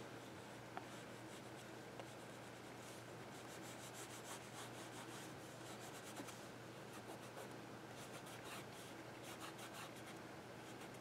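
Faint scratching of an oil pastel stick rubbed back and forth on paper, in runs of quick strokes.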